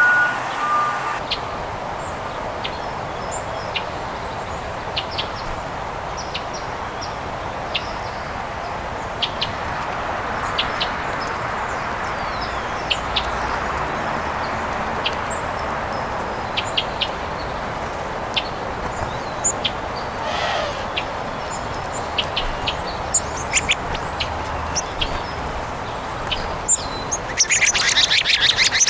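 Songbirds chirping with scattered short high calls over a steady rushing background, then a dense burst of harsher, louder bird calls near the end.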